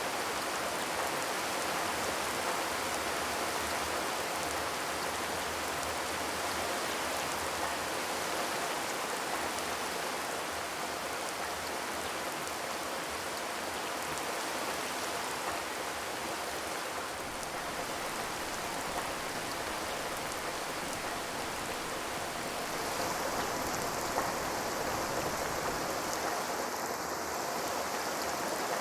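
Steady rain drumming on a corrugated zinc roof, an even patter of drops with no thunder.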